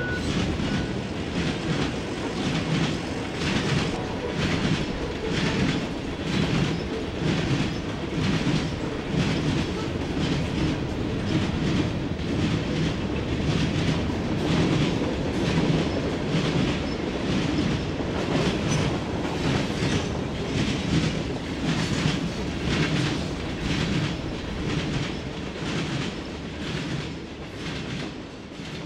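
A train rolling past, its wheels clacking over the rail joints in a steady rhythm over a low rumble; the sound fades out at the end.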